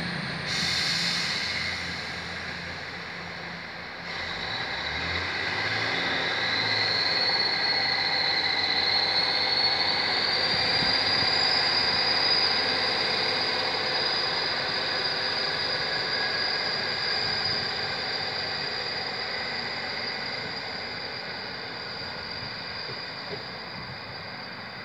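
Diesel multiple unit pulling away from the platform. After a brief hiss at the start, its engine builds from about four seconds in and a high whine rises in pitch, then holds steady. The sound slowly fades as the train draws off into the distance.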